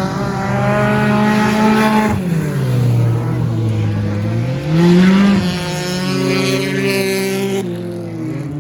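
Stock car engines racing, their pitch rising as they accelerate and falling as they lift off. It peaks about five seconds in, and several engines run over one another near the end.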